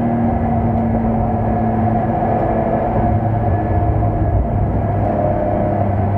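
BMW E46 M3's straight-six engine heard inside the cabin, running at steady revs under load.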